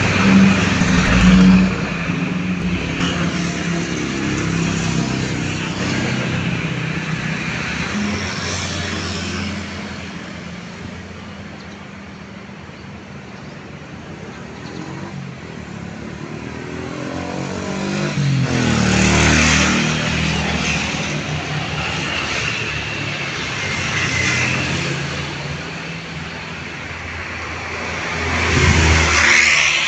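Swiftlet call sound playing continuously as high twittering chirps, the kind played at a swiftlet house to lure birds in to roost. Road vehicles pass by: one at the start, a louder one about two-thirds through, and another near the end.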